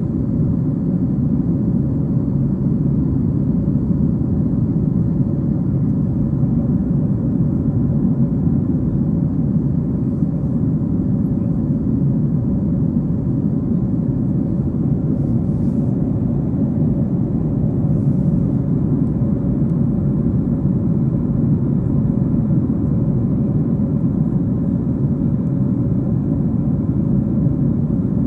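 Steady cabin rumble inside a Boeing 737-700 in flight: its CFM56-7B jet engines and the airflow over the fuselage make an unchanging low roar, with a faint steady hum on top.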